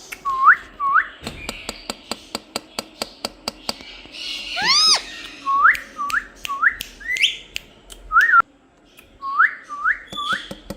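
Pet parrot whistling short rising notes, mostly in runs of two or three, with one longer arching whistle about five seconds in. A rapid series of sharp clicks runs alongside.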